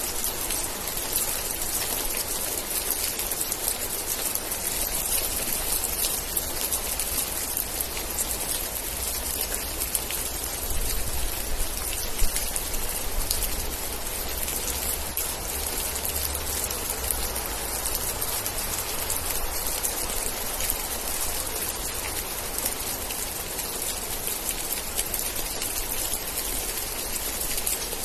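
Steady rain: a dense, even hiss of raindrops pattering on a surface. A low rumble swells and fades around the middle.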